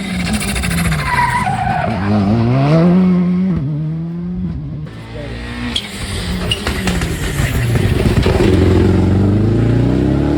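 Turbocharged rally car engine revving hard through the gears, its pitch climbing and dropping sharply at each shift and lift. Between pulls there is a chattering flutter: turbo compressor surge as the throttle snaps shut. A second hard run builds near the end.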